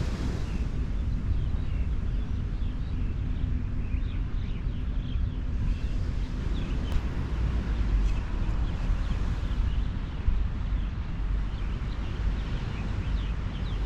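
Wind buffeting the microphone in a steady low rumble, with faint short high chirps scattered through the middle.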